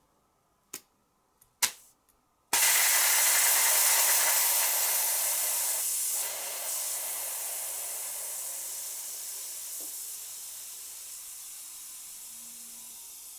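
Two light clicks, then butane gas hissing from a refill can into a lighter's fill valve. The hiss starts suddenly about two and a half seconds in and slowly fades.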